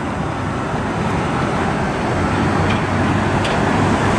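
Steady rumble of road traffic and engines, slowly growing louder.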